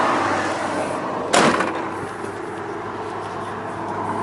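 A single sharp knock about a second and a half in, over a steady background of outdoor vehicle noise with a low hum.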